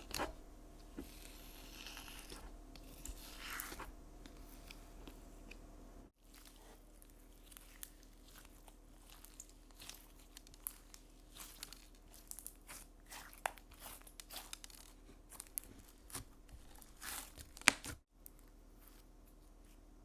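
Slime being squeezed and stretched by hand, giving many short, sharp crackles and pops.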